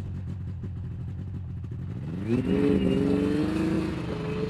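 2000 Yamaha PZ500 Phazer snowmobile's two-stroke engine idling steadily, then revving up about two seconds in and holding at a higher speed.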